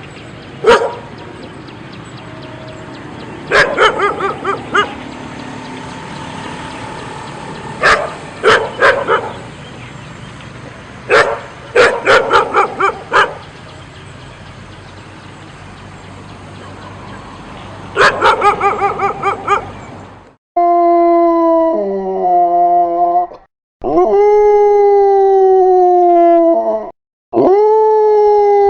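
A dog barking in quick bursts of several barks each, over a steady hiss. About twenty seconds in, a dog takes over with three long howls, each starting high and sliding slowly down.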